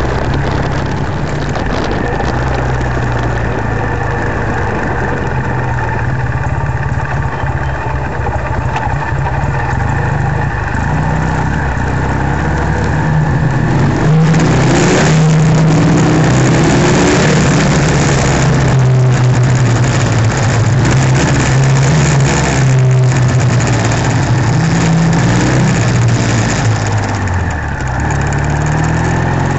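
Classic British motorcycle engine running on the move, heard from the rider's seat, with wind noise on the microphone. The engine gets louder about halfway through while riding through a tunnel, changes pitch a few times, and drops back briefly near the end.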